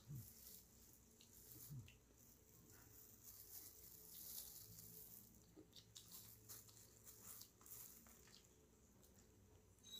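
Near silence with faint eating sounds: quiet chewing and small mouth clicks as fried chicken is eaten.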